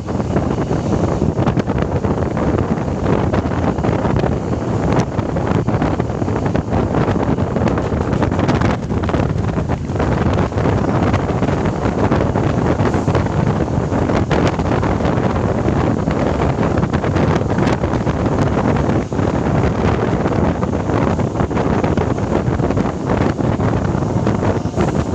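Local passenger train running, heard from on board: a steady loud rumble with scattered clicks and knocks, and wind buffeting the microphone.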